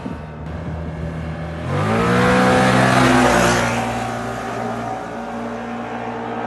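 Can-Am Outlander G3 ATV's V-twin engine idling through its exhaust. About two seconds in it is revved once, rising in pitch, holding briefly, then falling back to a steady idle.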